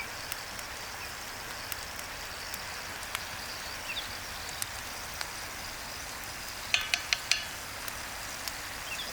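Sausage, onions, peppers and tomatoes sizzling steadily in a cauldron over an open fire, with scattered small pops and a quick run of sharp clicks about seven seconds in.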